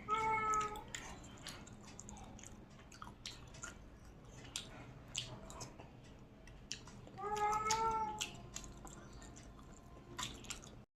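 A cat meows twice, once at the start and again about seven seconds in, each call about a second long. Soft eating clicks of chewing can be heard between the calls.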